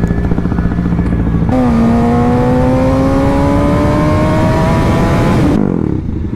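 Sport motorcycle engine running low for a moment, then opened up about one and a half seconds in: a steady pull with the pitch climbing slowly for about four seconds, with wind rushing over the helmet microphone. Near the end the throttle closes and the engine note drops.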